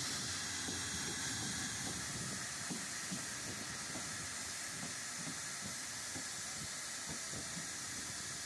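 A passenger train rolling slowly into a station, heard from an open coach doorway: a steady rushing hiss with a faint low rumble underneath.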